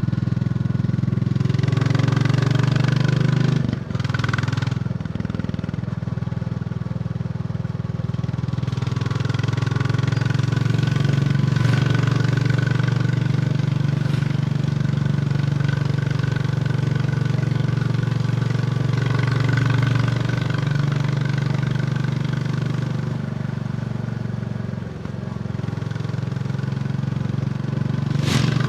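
Royal Enfield Bullet 350 single-cylinder engine running steadily while the motorcycle is ridden along, with a brief drop in the engine sound about four seconds in and again near the end.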